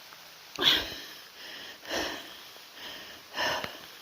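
A person breathing hard, with three loud breaths coming about every second and a half.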